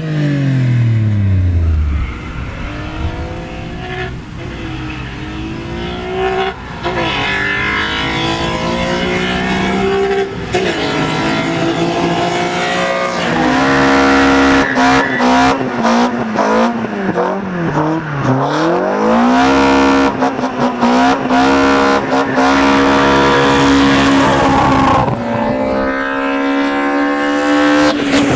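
Performance car engine being driven hard, its pitch climbing and dropping again and again as it revs and changes gear, with some tyre squeal.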